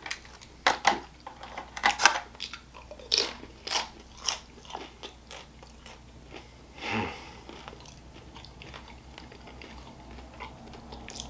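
Close-up crunching and chewing of tri-colored tortilla chips from pulled-pork nachos: a run of sharp crunches over the first four seconds or so, then quieter chewing.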